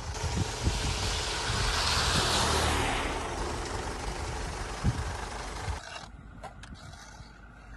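Road vehicle engines rumbling under a broad hiss of traffic and wind that swells for a couple of seconds. About six seconds in the sound cuts to a quieter background with a few clicks.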